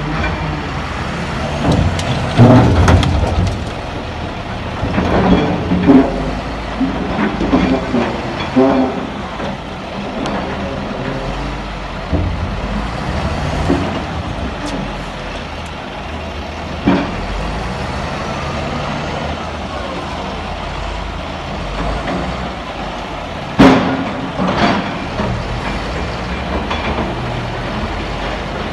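Heavy diesel machinery running steadily, with a series of knocks and clanks in the first third and a single loud, sharp bang about three-quarters of the way through.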